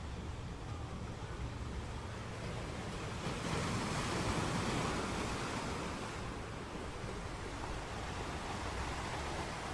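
Sea waves breaking on a shore: a steady wash of surf that swells to a louder break about three seconds in and eases off again after about six seconds, over a low rumble.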